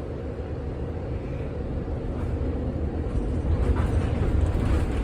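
1948 Philadelphia PCC streetcar rolling along the track, a steady low rumble that grows louder as the car picks up speed after a stop.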